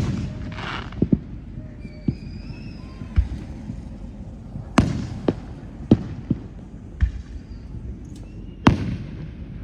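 Fireworks going off: about ten sharp bangs at uneven intervals, some close and some distant, with the loudest at the start and near the end. A crackling hiss follows the first bang, and a faint wavering whistle comes about two seconds in.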